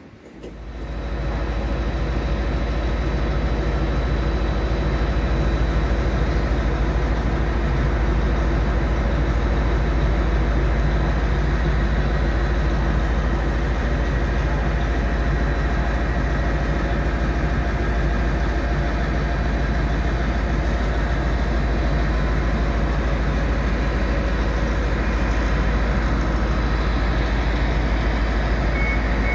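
Greater Anglia Class 755 bi-mode multiple unit standing at the platform, idling: a steady low hum with several steady higher tones over it, coming in about a second in.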